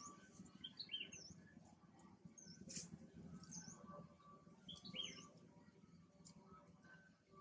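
Faint bird chirps: short, high calls repeated about once a second over quiet outdoor background noise.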